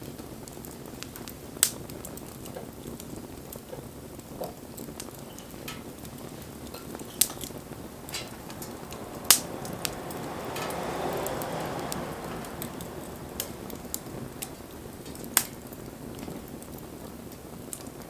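Wood campfire burning with a steady low hiss and occasional sharp pops and crackles, the loudest about nine seconds in. A soft swell of rushing flame sound rises and falls between about ten and twelve seconds.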